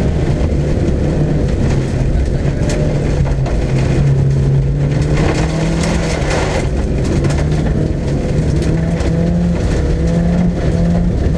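Mercedes-Benz 190 Diesel's engine heard from inside the cabin, driven hard at rally pace: its pitch climbs and drops back in steps as it pulls through the gears. Gravel and tyre rumble run underneath, with a burst of stones clattering against the car around the middle.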